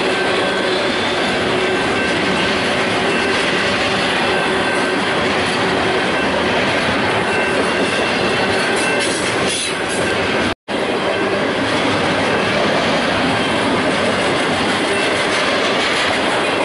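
Union Pacific double-stack intermodal train of container well cars rolling past close by: a loud, steady rumble of wheels on rail, with faint steady wheel squeal in it. The sound cuts out for an instant about ten and a half seconds in.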